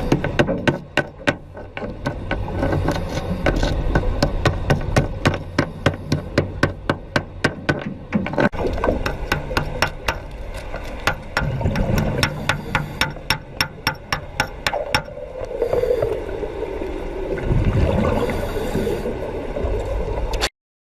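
Underwater wet stick (SMAW) welding: a long run of sharp clicks, several a second, over a low rumble, the clicks thinning out in the second half.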